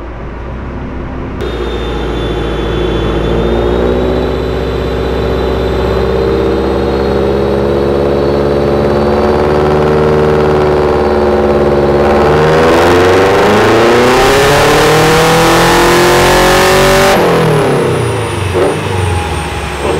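Turbocharged 2.5-litre EJ257 flat-four in a Subaru Forester running on a rolling-road dyno. It holds steady revs with a faint high whine, then about twelve seconds in pulls hard, revs climbing under a loud rushing noise, and lifts off about five seconds later with the revs falling away.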